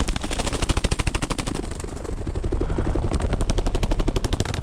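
Vehicle engine running with a rapid, even clatter over a low rumble.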